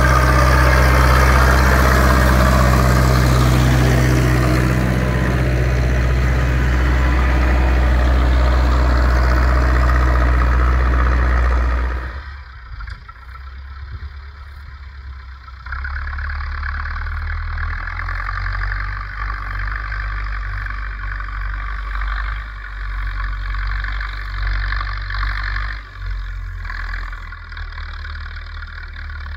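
Zetor 6245 tractor's four-cylinder diesel engine running loud and steady under plowing load. About twelve seconds in the sound drops off suddenly, and a much quieter engine sound carries on.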